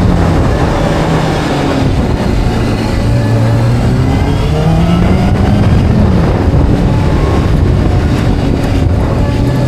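Motorcycle engine under way, its pitch climbing and dropping with throttle and gear changes: a climb about five seconds in, cut off by a sudden drop near six seconds, then steady cruising, over a constant rush of wind noise.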